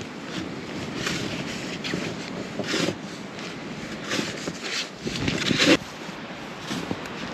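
Snowstorm wind rushing and buffeting the microphone, with irregular louder gusts, the strongest a little over five seconds in.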